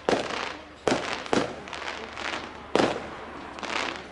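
Fireworks going off: four sharp bangs over the first three seconds, each trailing off, then a softer swell of noise near the end.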